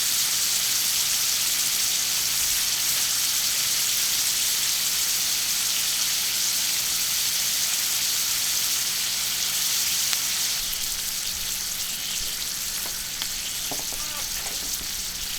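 Food sizzling steadily in hot fat on a thick iron griddle plate over charcoal. The sizzle softens a little about ten seconds in.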